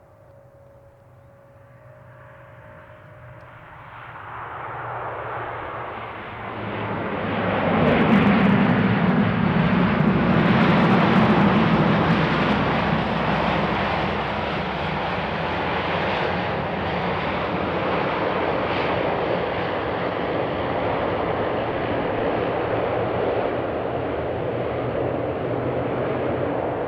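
Bombardier DHC-8-Q400 turboprop airliner landing: engine noise grows louder over about eight seconds as the aircraft comes close, then stays loud and steady.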